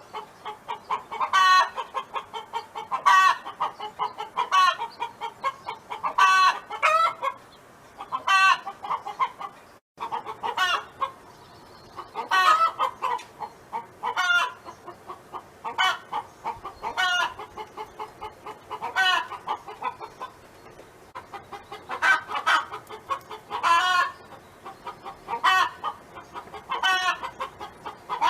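Domestic hen clucking and calling over and over, a short call every second or two, with a momentary break about ten seconds in.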